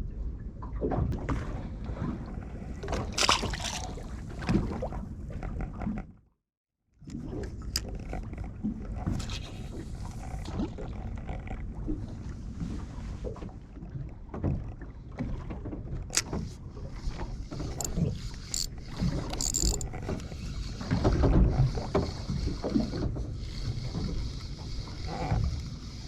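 Sounds aboard a small fishing boat at sea: a steady low rumble of water and wind, with scattered knocks and clicks. The sound cuts out for under a second about six seconds in.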